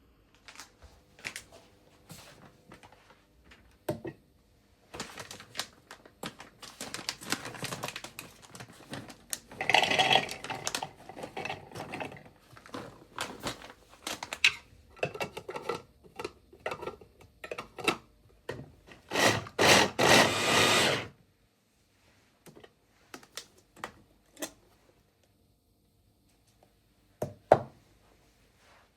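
Kitchen handling sounds from cooking: a run of irregular knocks and clicks of utensils and dishes, with busier clatter in the middle and a louder, hissing stretch of about two seconds past the middle, then a few scattered taps and one sharp knock near the end.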